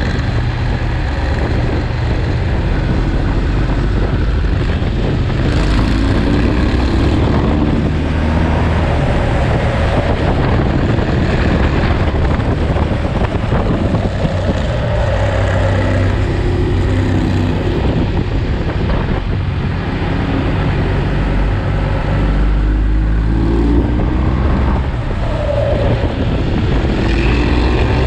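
Ducati Monster's V-twin engine running on a ride down a mountain pass, its revs rising and falling several times as it accelerates and shifts gear.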